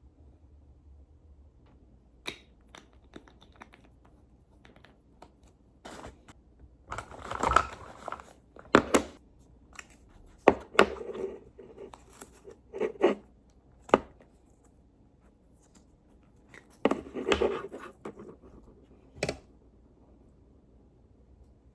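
Objects being handled close by: scattered sharp clicks and knocks with a few longer rustling, scraping passages, separated by quiet gaps.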